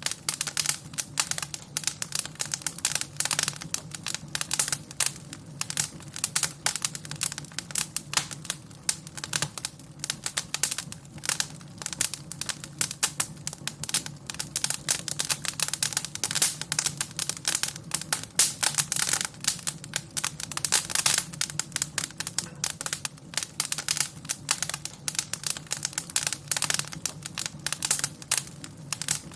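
Wood fire crackling in a fireplace: a dense, irregular stream of sharp crackles and pops over a low, steady background.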